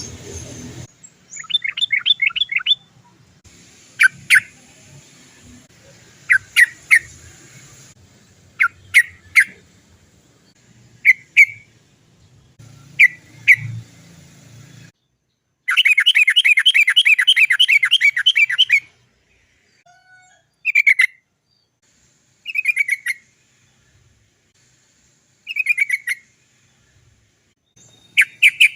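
Yellow-vented bulbul (trucukan) singing: short bursts of quick, down-slurred 'chok chok chok' notes repeated every second or two. A little past halfway comes one long rolling trill of about three seconds.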